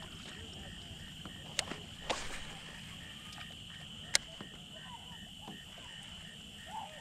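An evening insect chorus: a steady high buzz with a softer pulsed call repeating about three times a second. A few sharp clicks come through it, the loudest about four seconds in.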